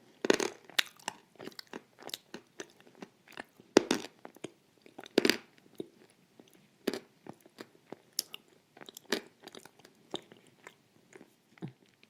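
Close-miked biting and chewing of something crunchy: sharp crunches about once a second, the loudest near the middle, with smaller crackles between.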